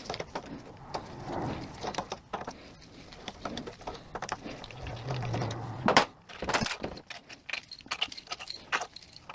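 Small metal transmission parts clicking and clinking as a 42RE valve body is taken apart by hand, with sharper clinks in the second half and a brief low hum about five seconds in.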